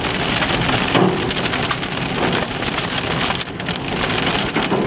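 Large hailstones pelting a car's roof and windshield, heard from inside the cabin: a dense, unbroken clatter of hard hits over the rush of the storm.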